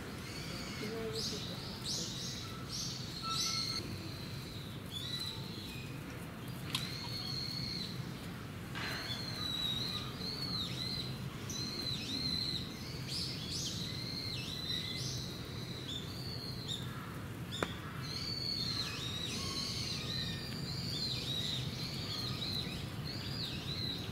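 Small birds chirping, with many short, high chirps repeated throughout over a steady low background hum.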